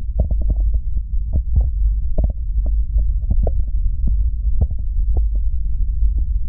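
Vaseline-coated hands rubbing and pressing the silicone ears of a 3Dio binaural microphone: a deep, muffled rumble with many small, irregular sticky clicks and squelches.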